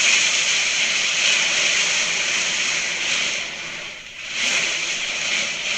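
Heavy water pouring down in a steady hiss, like a torrential downpour, easing briefly about four seconds in.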